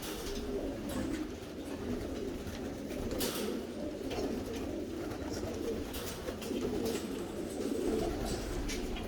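A group of homing pigeons cooing continuously in an enclosed loft, their calls overlapping. Short clicks and scuffles are scattered throughout.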